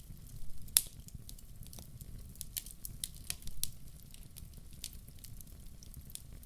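Wood fire in a fireplace crackling, with irregular sharp pops and one loud pop a little under a second in, over a steady low rumble.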